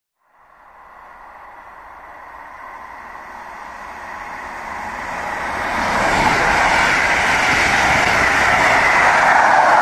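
Red DB Regio double-deck regional train approaching and passing close by, its wheels running on the rails. The noise grows steadily louder over about six seconds, then holds loud as the coaches go past.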